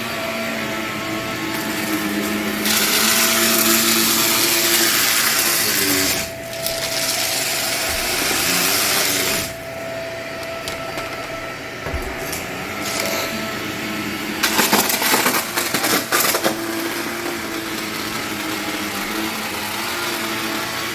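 Vacuum cleaner running over old nylon carpet, with two loud hissing passes early on and a run of crunchy crackling about 15 s in as grit is sucked up.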